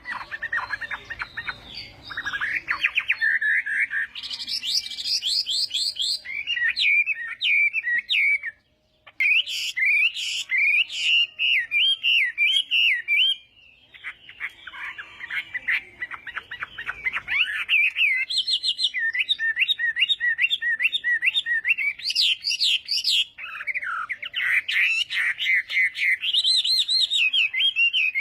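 Chinese hwamei (melodious laughingthrush) singing its fighting song: loud, varied runs of rapidly repeated whistled notes and trills, with a brief pause about nine seconds in and another near fourteen seconds.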